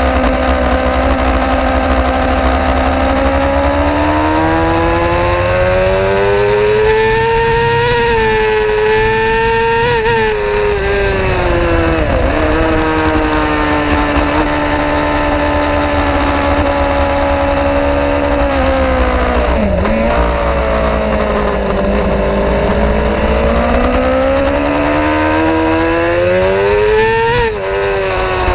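Suzuki GSX-R 750's inline-four engine running hard on track, its note climbing and falling with the throttle, with sudden drops in pitch about ten seconds in and near the end as it changes up. Wind rush on the microphone underneath.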